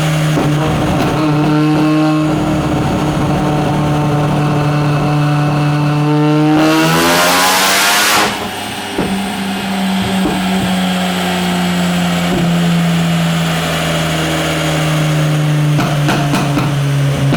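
Turbocharged 13B rotary engine of a Mazda RX-7 FC running on a chassis dyno: it holds a steady note, rises briefly in revs and ends in a loud rush of air about seven seconds in, then its note falls slowly as it winds down.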